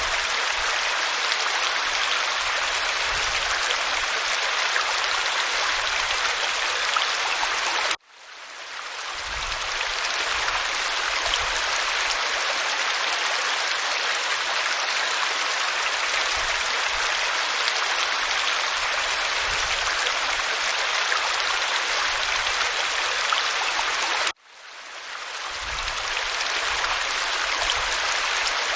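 Waterfall pouring over rock: a steady, even rush of water. It cuts out abruptly twice, about eight seconds in and again some sixteen seconds later, and fades back in over a second or two each time.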